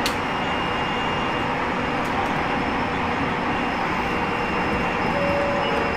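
Aoimori Railway train running along the line, heard from inside the car as a steady rumble of wheels on rail. Faint thin whine tones run through it, with a sharp click at the start and two more about two seconds in.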